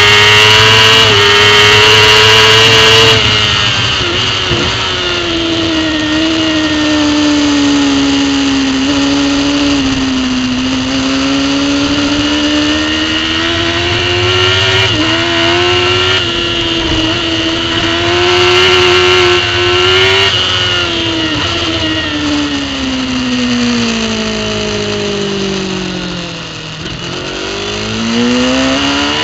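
Racing superbike engine at race speed, picked up by a camera mounted on the bike. Revs are held high at first and drop about three seconds in, then rise and fall with throttle and gear changes. Near the end a long falling note as the bike slows for a corner gives way to revs climbing again under acceleration.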